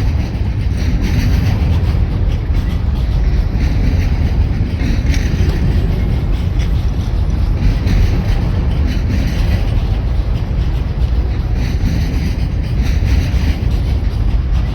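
Train rolling past at trackside: a loud, steady rumble of wheels on rail.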